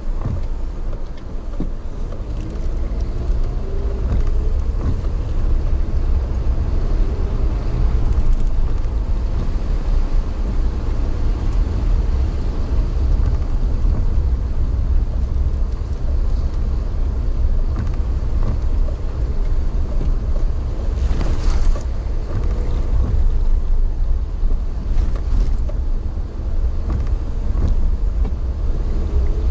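A moving vehicle running, heard as a steady low rumble. An engine tone rises in pitch a few seconds in, and a short sharp clatter comes about twenty seconds in.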